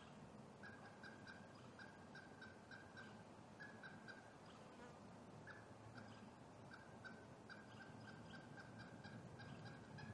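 A faint bird calling a long series of short, evenly repeated notes, about three a second, over low outdoor hiss.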